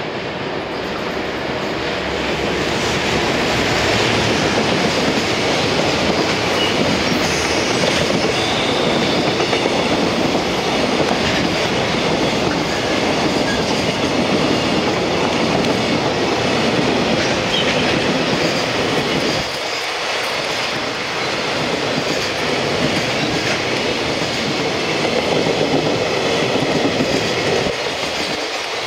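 Freight train passing: an EF210-300 series electric locomotive goes by in the first few seconds, then a long line of container flatcars rolls past, its wheels clattering steadily over the rail joints.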